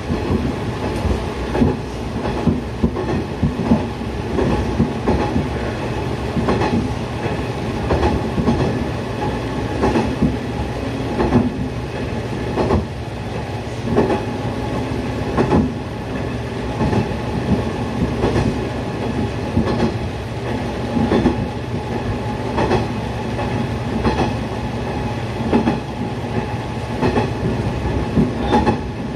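Diesel railcar running along the line, heard from inside the cab: a steady low engine drone with short sharp clacks every second or two, typical of wheels passing over rail joints.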